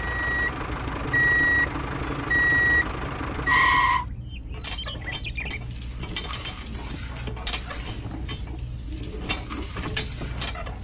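A vehicle reversing alarm beeping four times, about a second apart, the fourth dropping in pitch as it cuts off. From about four seconds in, a steady rattling, clicking mechanical clatter takes over.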